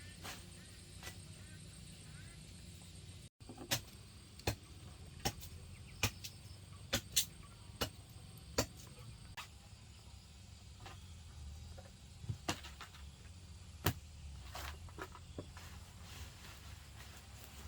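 A series of sharp knocks, about one every half to three-quarters of a second for several seconds, then a few more further apart over a low steady background.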